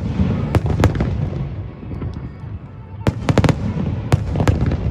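Aerial fireworks bursting: sharp cracks, with a quick run of four around three seconds in, over a continuous low rumble of shell bursts.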